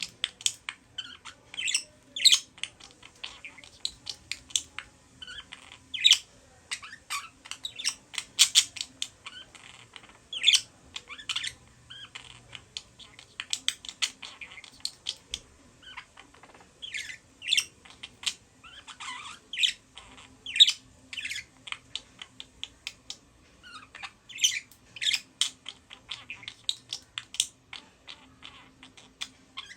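Budgerigars chattering and warbling: a continuous stream of short, sharp chirps and squawks, over a faint steady hum.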